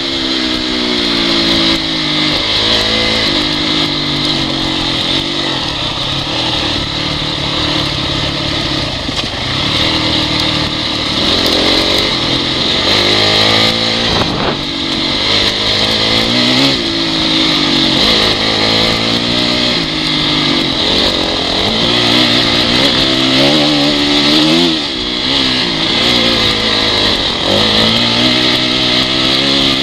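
Honda CRF dirt bike's four-stroke single-cylinder engine running under the rider's throttle, its pitch climbing and dropping again and again as it is revved up and eased off.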